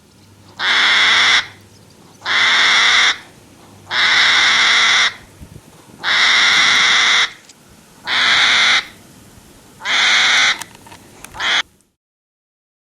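An animal giving loud, harsh calls: six long ones of about a second each, repeated about every one and a half seconds, then a shorter one, after which the sound cuts off abruptly.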